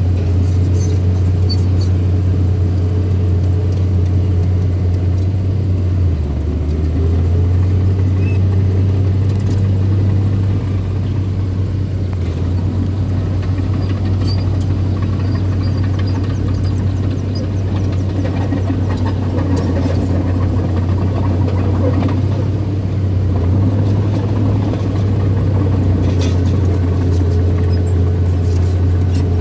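Bulldozer engine running steadily, its pitch dipping briefly about six seconds in.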